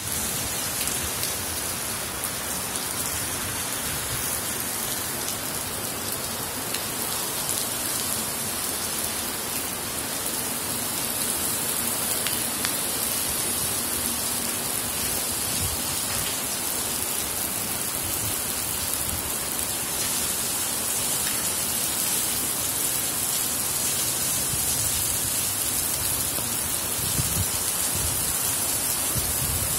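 Steady rain falling on wet pavement, an even, continuous hiss.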